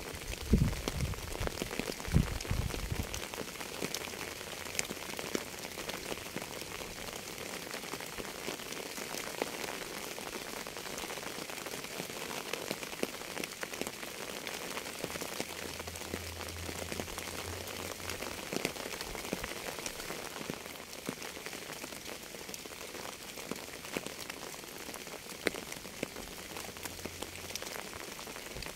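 Steady rain falling on a surface, with the sharp ticks of single drops all through. There are two low thumps in the first three seconds.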